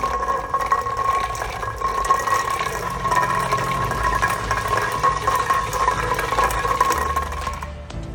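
A small electric motor running with a steady high whine and a rattling, crackling noise, which stops near the end.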